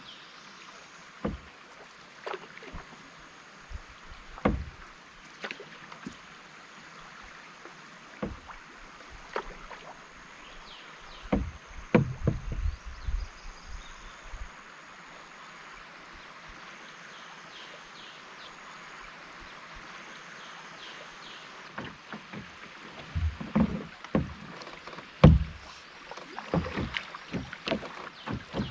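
Canoe being paddled on a river: irregular paddle strokes splashing, with sharp knocks, over a steady wash of moving water. The strokes are sparse at first, come in a busier run about twelve seconds in, and grow frequent again near the end.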